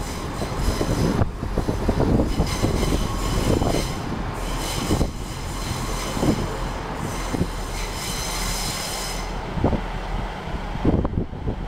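ScotRail Class 170 Turbostar diesel multiple unit passing close by over a continuous low rumble, with a high-pitched metallic squeal from the train as it rolls. The squeal stops about nine seconds in.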